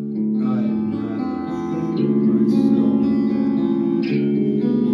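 Guitar music: plucked notes ringing over one another, with new chords coming in about two seconds in and again about four seconds in.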